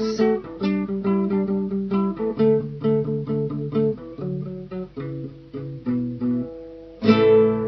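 Guitar picking single notes and broken chords, closing with a final strummed chord about seven seconds in that is left to ring out.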